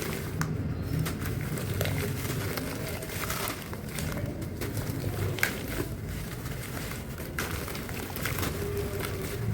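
Dry, dusty crumble breaking apart in water, with scattered crisp crackles over a low murmur.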